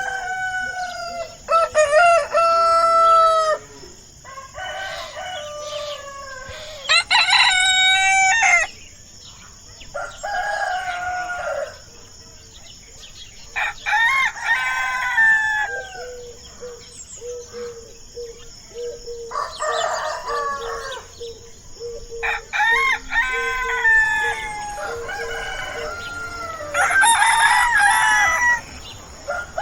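Rooster crowing over and over: about eight cock-a-doodle-doo calls, each a second or two long, a few seconds apart.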